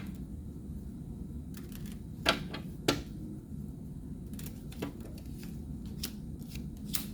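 Tarot cards being handled and laid down: a scattering of short, sharp clicks and taps at irregular intervals over a faint low background hum.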